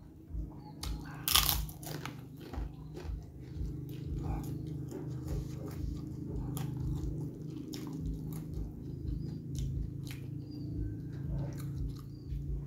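A person eating a crispy fried kerupuk cracker: one loud crunch about a second in, then steady close-up chewing with small crunches and mouth clicks.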